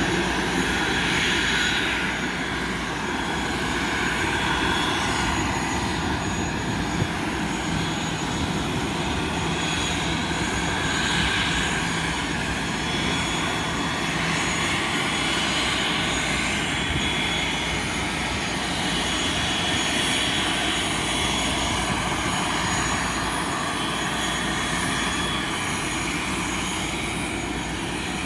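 Airbus A320 airliner's jet engines running steadily, a continuous even noise with faint high tones.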